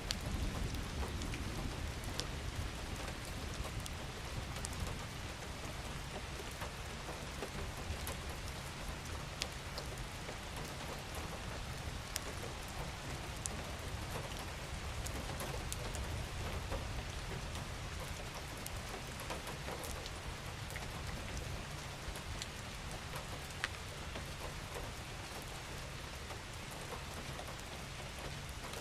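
Steady rain falling, a continuous hiss with scattered sharp drips and ticks of individual drops. A low rumble fades away over the first couple of seconds.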